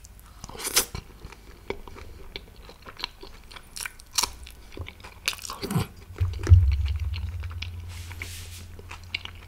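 A person chewing and biting food close to the microphone, with many short wet clicks and smacks of the mouth. About six and a half seconds in a low thump sounds, leaving a low hum that fades slowly.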